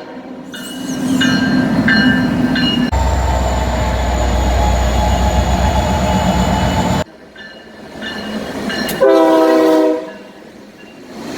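Locomotive horns sounding in several short cut-together clips, with a passing train's heavy rumble and rail noise for about four seconds in the middle that cuts off suddenly, and a loud horn blast about nine seconds in.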